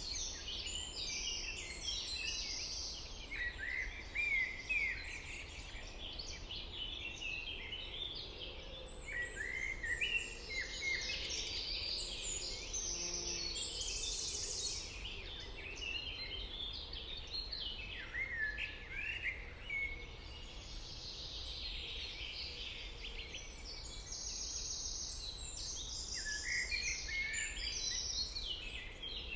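Several songbirds singing at once: a dense, overlapping chorus of quick chirps, trills and warbled phrases, over a steady low background rumble.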